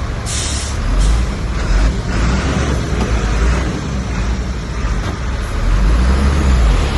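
Heavy diesel engine of earthmoving machinery running steadily with a low rumble, with a short burst of air hiss near the start and a fainter, shorter one about a second in.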